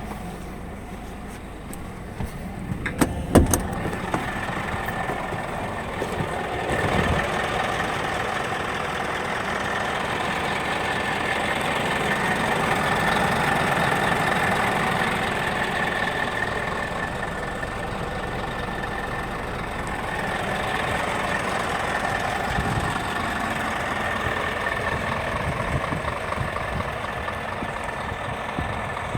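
Scania R440 truck's diesel engine running steadily at idle, with a few sharp clicks about three seconds in.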